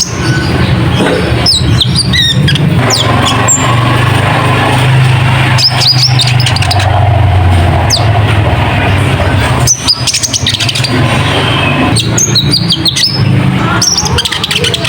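Konin (kolibri ninja sunbird) calling in clusters of quick, high, sweeping chirps over a loud, steady low engine-like hum.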